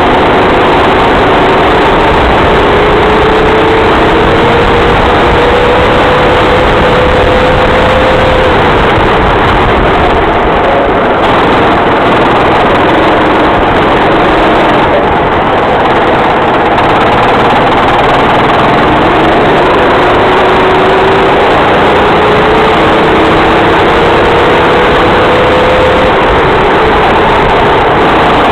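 Racing kart engine under load, its pitch climbing steadily twice as the kart accelerates, over a constant loud rush of noise.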